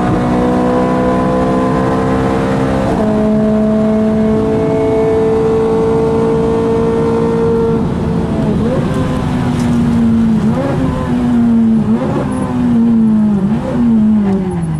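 Ferrari 430 Scuderia's 4.3-litre V8, heard from inside the cabin, held under load in fifth gear with its pitch slowly climbing. About eight seconds in it comes off the throttle and runs down through several quick downshifts, each with a sharp throttle blip as the revs fall.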